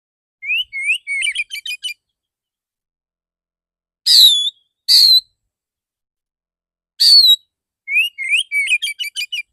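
Male Oriental magpie-robin (kacer) singing. Two phrases begin with rising whistles and break into a quick run of short notes, one near the start and one near the end. Between them come three loud single whistles that rise and then drop, the shot-like 'dor dor' notes prized in kacer song.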